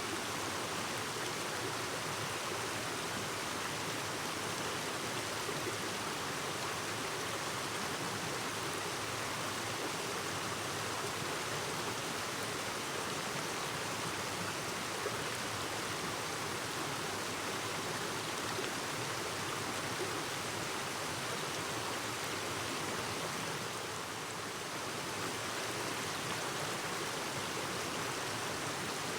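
Clear mountain stream flowing and babbling over rocks, a steady rush of water.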